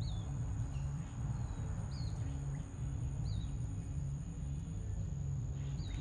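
A small bird chirping: four short calls that slide down in pitch, spaced one to two seconds apart. Beneath them runs a steady low rumble, the loudest sound, along with a constant thin high tone.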